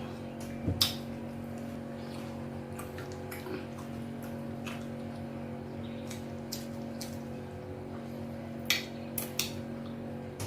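Mukbang eating sounds of amala with ewedu and egusi soup: soft wet squelches and mouth clicks, with a couple of sharper clicks about a second in and a short cluster near the end, over a steady background hum.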